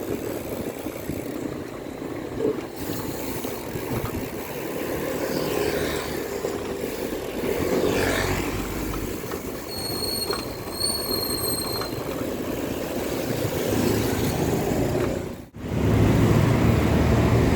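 Street traffic and road noise heard from a moving bicycle, with wind on the microphone. A faint high whine comes in about two-thirds of the way through, and the sound cuts out briefly near the end before returning louder with a low engine hum.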